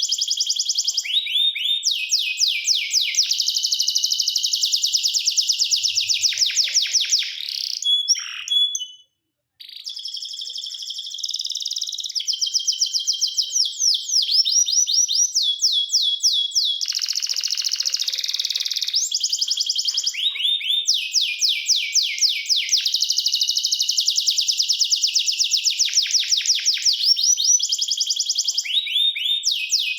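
Domestic canary singing: long, fast trills of rapidly repeated sweeping notes, high-pitched, broken by a brief silence about nine seconds in.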